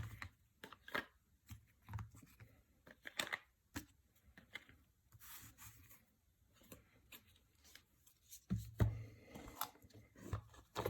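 Trading cards being handled at close range: faint, scattered soft clicks and rustles of card stock, louder and busier in the last couple of seconds.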